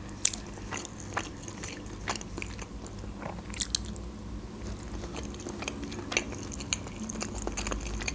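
Close-up eating sounds: a mouthful of pelmeni in sour cream being chewed, with many short, sharp clicks and smacks, the loudest about a third of a second in and again about three and a half seconds in.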